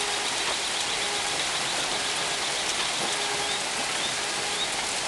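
Heavy rain pouring down in a sudden cloudburst: a dense, steady hiss of water falling and splashing.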